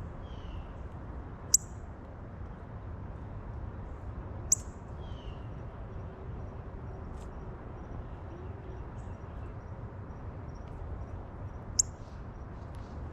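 Birds at a platform feeder: two short faint chirps, over a steady low rumble. Three sharp clicks, about a second and a half in, about four and a half seconds in and near the end, are the loudest sounds.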